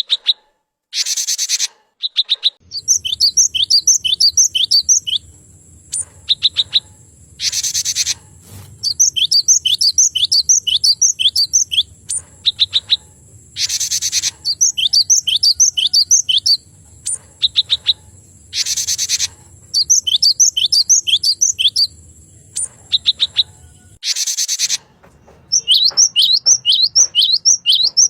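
Male cinereous tit (glatik batu) singing: a harsh, buzzy call about every six seconds, each followed by a quick run of about six sharp, high down-slurred notes and short bursts of rapid ticking notes, the phrase repeated over and over.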